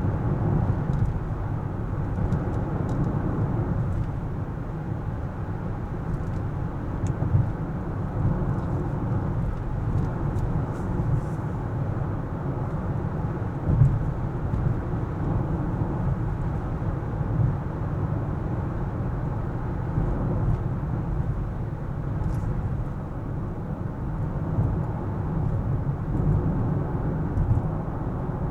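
A car driving on city streets: a steady low rumble of engine and tyre noise on the road, with a few faint clicks here and there.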